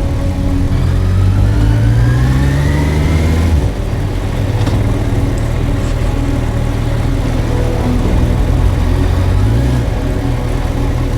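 Suzuki GSX1250FA's inline-four engine accelerating, its pitch rising for about three and a half seconds, then dropping suddenly at a gear change. It then runs steadily, with a small rise near the end.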